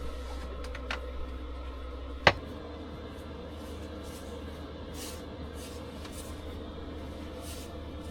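A gas stove being lit: a few clicks, the loudest a little over two seconds in. A steady low hum stops at that click, and a faint hiss follows.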